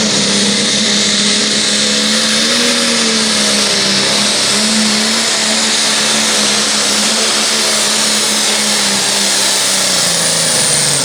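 Turbocharged John Deere 4440 Limited Pro Stock pulling tractor's diesel engine running flat out under heavy load on the sled. Its pitch holds steady, sagging slightly and recovering, with a high turbo whistle near the end.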